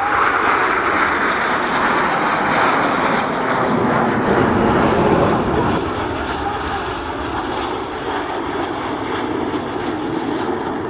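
Aircraft engine noise from a plane flying past, a loud steady rush that eases slightly about halfway through.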